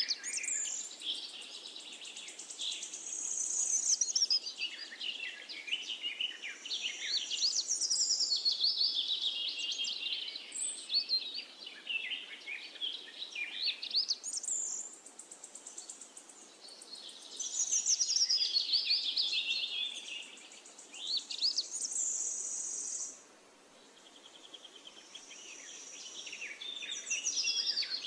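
Songbirds singing continuously: rapid high chirps and sliding whistles, with a few held, high, buzzy notes.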